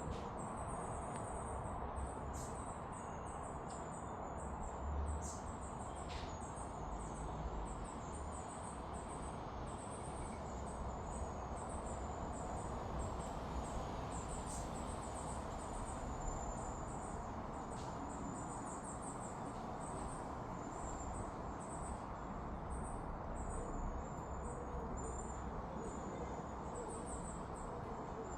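An insect chirping in short, rapidly pulsed, very high-pitched trills that repeat about once a second, over a steady background hiss.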